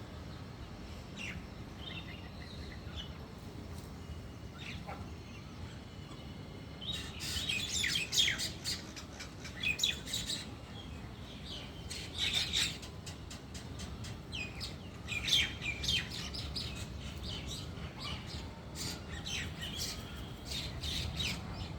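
Small birds chirping: many short, quick downward-sweeping calls, a few scattered at first, then dense and overlapping from about seven seconds in. A steady low rumble runs underneath.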